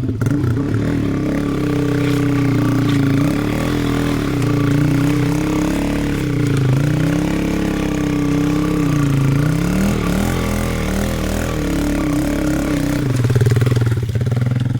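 Dirt bike engine running under load, revving as the bike climbs out of mud up a hill, the revs dipping and climbing back twice near the middle.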